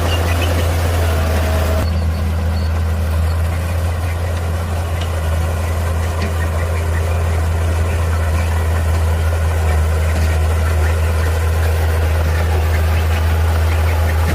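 Heavy diesel engine of earthmoving equipment running steadily with a deep, even drone; the brighter upper noise drops away suddenly about two seconds in.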